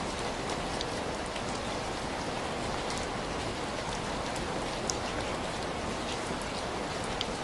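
Steady rain falling, with scattered small sharp ticks through it.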